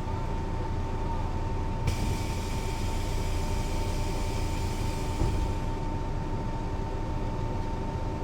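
Mercedes-Benz O 405 NÜ bus running, with a steady high whine throughout. A hiss starts suddenly about two seconds in and fades out a few seconds later.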